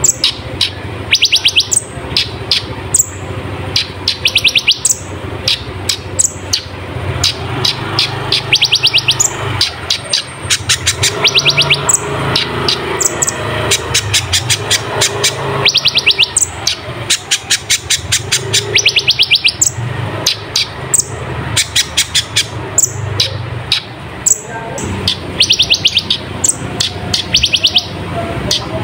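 Kolibri ninja sunbird singing vigorously: sharp high down-slurred notes and fast buzzy trills repeating every second or so, with a run of rapid ticking notes midway, over a steady low hum.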